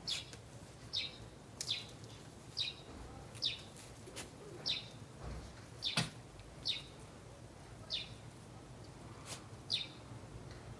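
A bird repeating a short, high chirp that falls in pitch, roughly once a second, with a few sharp clicks between, the strongest about six seconds in.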